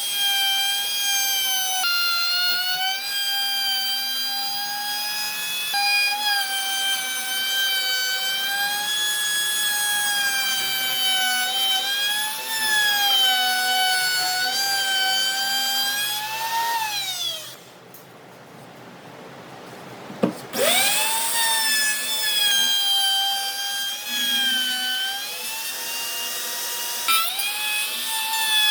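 A handheld electric power tool's motor runs with a high whine whose pitch sags and recovers as it is worked against wood. About 17 seconds in it is switched off and spins down. About 20 seconds in it clicks back on and winds up to speed again.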